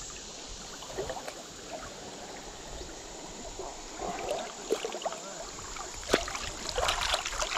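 River water running steadily, with splashes and small knocks from about four seconds in as a small brown trout is unhooked by hand and let back into the water.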